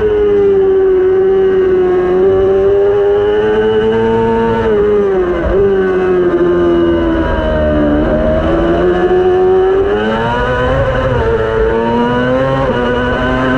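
600cc superbike racing motorcycle engine running at high revs. About midway its pitch drops in a couple of steps as it brakes and shifts down, then it climbs again under acceleration.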